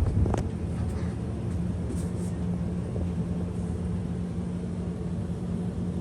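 A 52-inch Bahama Deluxe Hugger ceiling fan running steadily: an even motor hum under the rush of moving air, with a brief click just after the start.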